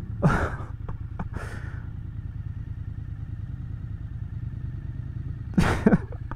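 Motorcycle engine running steadily at low road speed. A few short noisy bursts sound over it, one early, one about a second and a half in, and a louder pair near the end.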